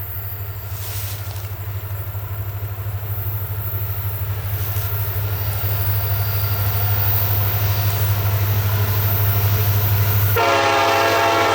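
Approaching EMD SD70M-2 diesel locomotive, a steady low engine rumble growing louder. Near the end its multi-chime air horn starts blowing.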